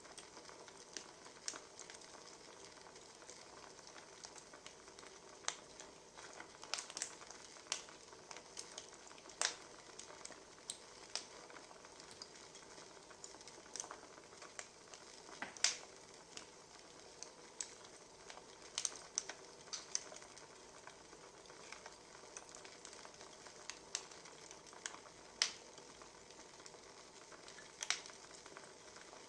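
Burning firewood crackling, with a low steady hiss and irregular sharp pops and snaps every second or so.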